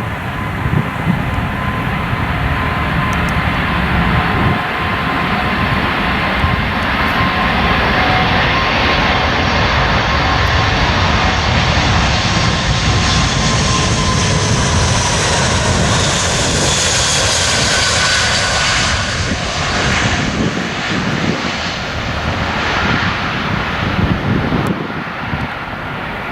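Jet airliner taking off and passing close by at takeoff thrust: a loud roar that swells over several seconds, with a high engine whine that slides down in pitch as the aircraft goes past, then eases off.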